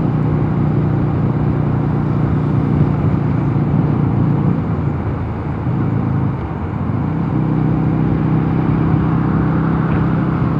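Mondial Nevada 250 motorcycle engine running steadily at road speed, with wind rush on the microphone. About halfway through, the engine note fades for a couple of seconds, then comes back.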